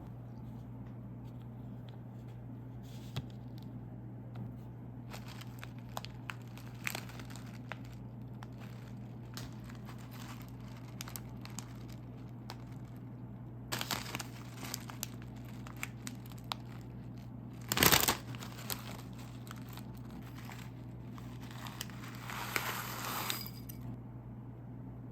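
A plastic snack wrapper being handled, crinkling in short bursts, with one loud rip about eighteen seconds in as it is torn open and more crinkling a few seconds later. A steady low hum runs underneath.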